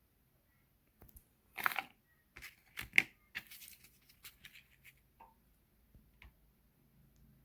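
Rustling and clicking as a replacement memory chip is taken out of its packaging and handled, loudest about a second and a half in and again near three seconds, then a few faint ticks.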